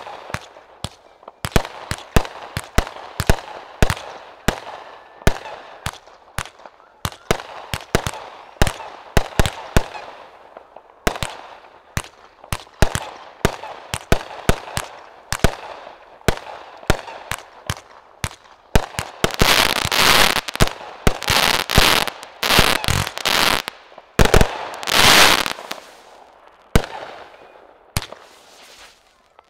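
Aerial consumer fireworks firing and bursting in quick succession, sharp bangs at about two or three a second. About two-thirds of the way through they come denser and louder in a rapid string, then thin out near the end.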